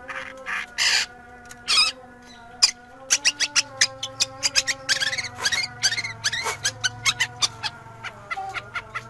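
Long-tailed shrike (cendet) calling in short, sharp, harsh notes, with a fast run of chattering notes from about three to six seconds in. Under it runs a steady held background tone.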